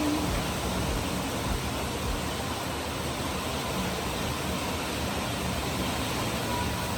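Steady, even rush of a wind and rain storm, with no breaks or individual impacts.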